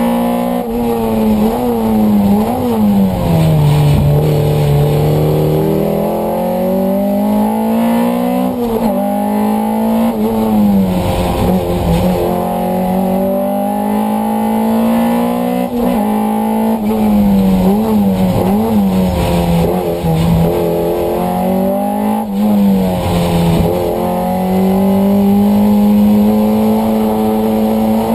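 Alpine A310's 1800 cc engine, heard from inside the cabin, revving hard through the gears on a track. Its pitch climbs and falls again and again, with a sudden drop at each gear change and each slowing for a corner.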